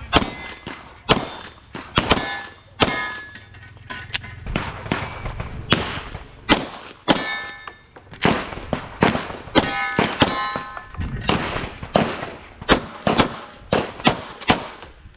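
A 9mm Glock 17 pistol is fired rapidly in irregular strings of shots, mixed with the ringing clang of steel popper targets being hit.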